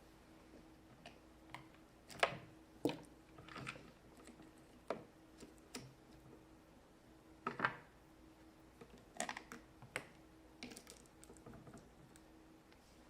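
Scattered light clicks and taps of small plastic toys being handled against a plastic playset, irregularly spaced with a few louder knocks, over a faint steady hum.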